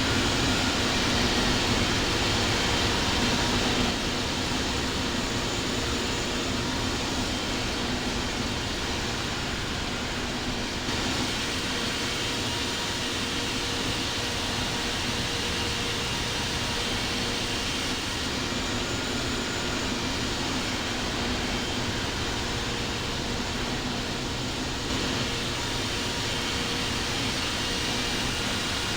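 Steady jet-aircraft noise at an airport: an unbroken rush with a constant hum and faint whine of turbine engines running.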